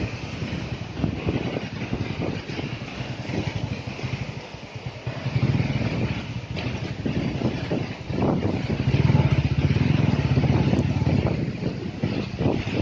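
Motorcycle engine running under load, getting louder about five seconds in and again at about eight seconds, with frequent short knocks throughout.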